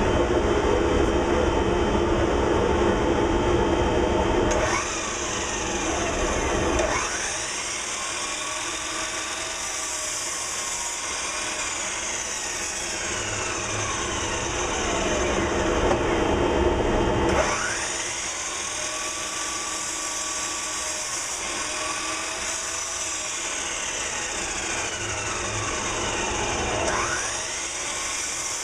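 A 4-inch shop dust collector runs steadily while a compound sliding miter saw is started, cuts through timber and spins down, about three times over.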